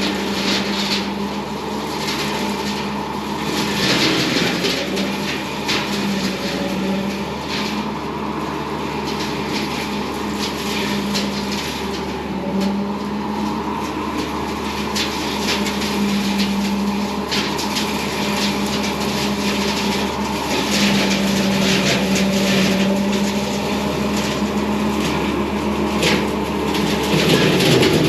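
Bobcat T595 skid steer's diesel engine running steadily under load while its hydraulically driven vertical brush hog cuts trailside brush, with irregular bursts of crackling noise as branches are hit. Near the end the engine pitch rises.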